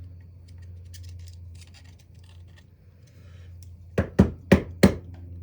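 Quiet handling of small parts over a low steady hum, then four sharp knocks in quick succession, about a third of a second apart, near the end.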